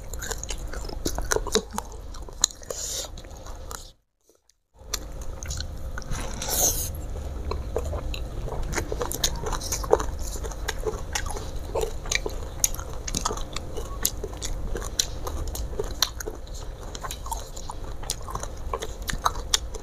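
Close-miked chewing of fried tilapia and rice, with many small clicks of the mouth. The sound cuts out completely for under a second about four seconds in.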